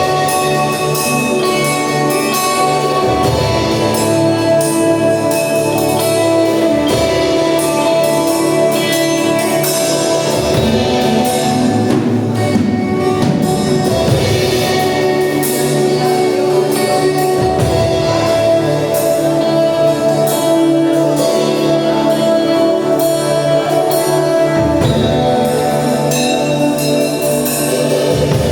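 Instrumental worship music with long held chords.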